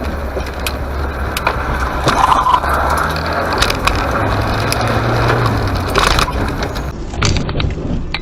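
A car driving: steady engine hum and road noise, with scattered knocks and rattles. The engine note rises for a couple of seconds midway.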